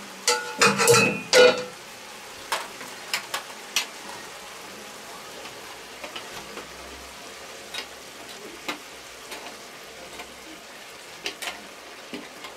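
Steady sizzling of food frying in a cast iron Dutch oven as diced meat and sausage are scraped in from a stainless steel tray with a wooden spoon. Loud metal clatter in the first second and a half, then scattered scrapes and clicks.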